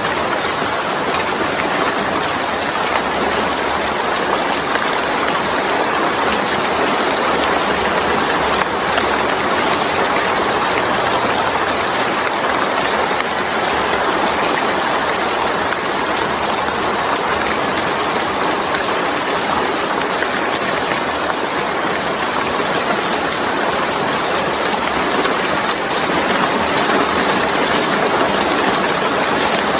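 Steady, heavy rain falling: a continuous, even hiss of drops with no breaks or changes.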